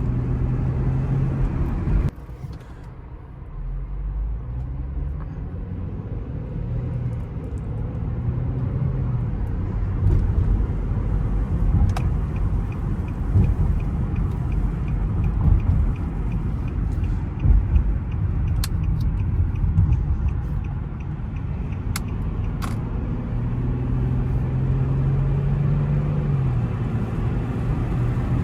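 Interior sound of an Infiniti car being driven: engine and road rumble, with the engine pitch rising and falling as it speeds up and slows. The sound drops suddenly about two seconds in. Midway there is a run of even ticks and a few sharp clicks.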